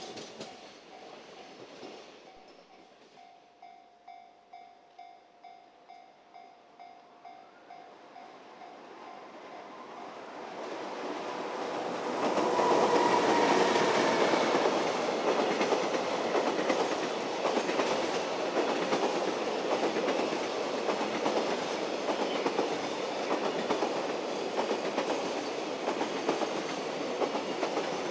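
A freight train approaches and runs past close by, its wheels clattering steadily over the rail joints. It is loud from about twelve seconds in to the end. Before it arrives, a faint ringing tone pulses about twice a second.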